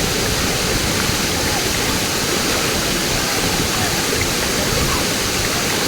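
Waterfall: a steady, even noise of rushing water.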